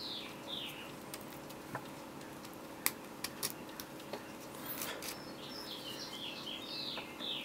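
Faint bird chirps in the background: a few short notes near the start, then a run of quick falling chirps through the second half. A few light clicks of hard plastic parts being handled come in between.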